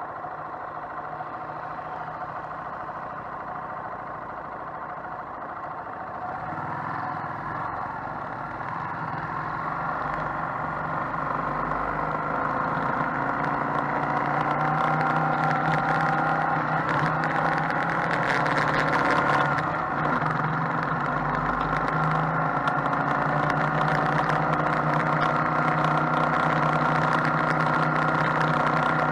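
Motorcycle engine running on the road with a steady drone that grows louder over the first dozen or so seconds, then holds level.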